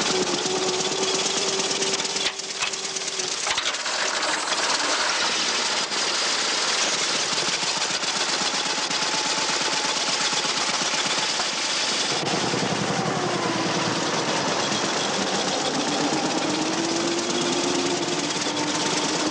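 Vintage car's petrol engine running with a loud, rapid mechanical clatter. About twelve seconds in the sound deepens, and the engine note then rises and falls.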